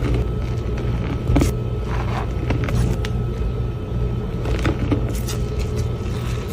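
A steady low mechanical hum, like a running motor, with a faint steady whine and short scrapes and knocks scattered through it.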